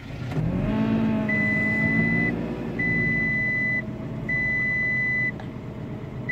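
VW Touareg 3.6 FSI VR6 engine cold-starting at about −34 °C: it catches about half a second in, the revs rise quickly and settle into a steady idle. Over it the instrument cluster's warning chime sounds a high tone about a second long, repeating every second and a half, for a check-coolant warning.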